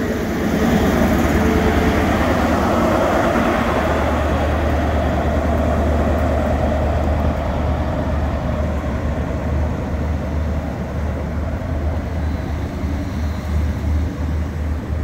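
A Great Western Railway Class 43 HST moving past the platform, its diesel power car droning steadily under the rumble of wheels on rail as the coaches roll by. The rolling noise is loudest in the first few seconds and eases as the train draws away.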